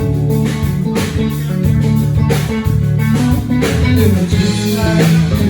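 Live band music with no singing: guitar over bass guitar and drum kit, in a bluesy rock style.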